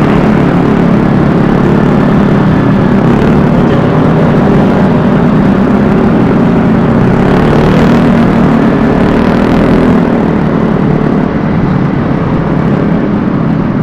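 Vespa S 125 scooter under way: its engine running steadily under the rush of riding wind on a helmet microphone, easing off slightly about ten seconds in.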